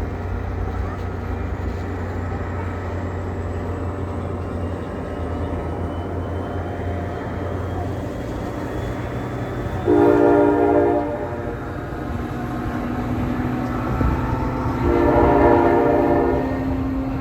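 A New Jersey Transit train passing with a steady low rumble. Its horn sounds two blasts, one of about a second partway through and a longer one near the end.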